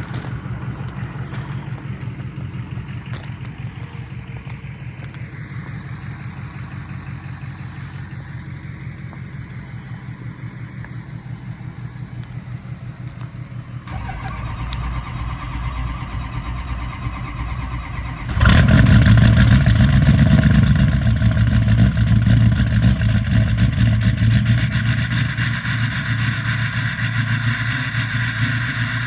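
An engine idles steadily. About 14 s in, a deeper rumble joins it. About 18 s in, a Ford 6.0 Powerstroke V8 turbo-diesel catches on a cold start with no block heater, and from then on runs much louder.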